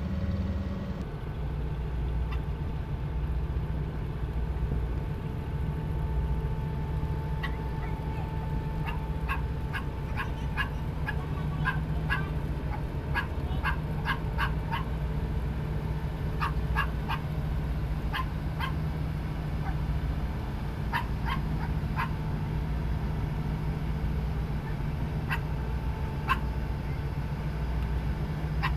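Steady low drone of the tugboat's engine, with clusters of short, high-pitched animal calls from about eight seconds in until near the end.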